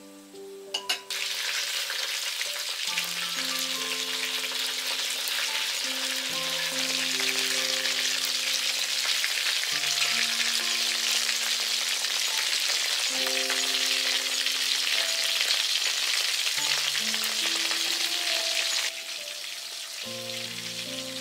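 Potato-wrapped shrimp rolls deep-frying in a wok of hot oil, sizzling steadily. The sizzle starts abruptly about a second in and drops sharply near the end, with soft background music of slow held notes underneath.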